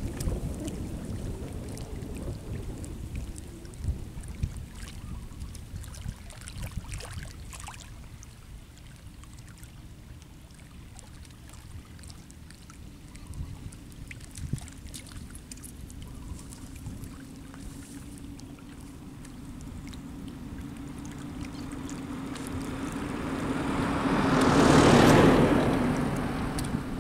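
Wind rumbling on the microphone with a few faint clicks, then an engine growing steadily louder, loudest about two seconds before the end, and fading again as it passes.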